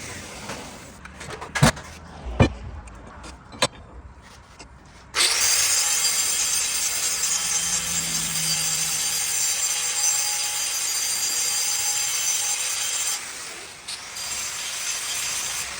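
A few sharp knocks, then a power tool running hard against its work: a steady high whine and grinding that starts suddenly about five seconds in and stops about eight seconds later.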